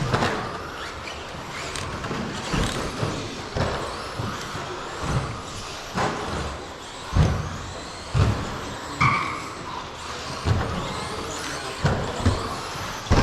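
Radio-controlled 13.5 electric stadium trucks racing on a track: a steady hiss of motors and tyres with irregular thumps about once a second. There is a short beep about nine seconds in.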